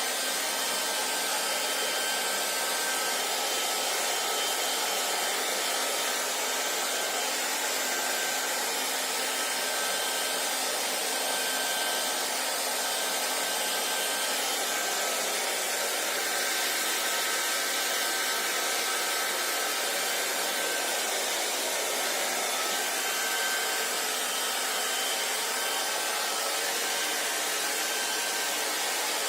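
Handheld electric hair dryer running steadily: an even rush of blown air with a faint whine from the motor and fan.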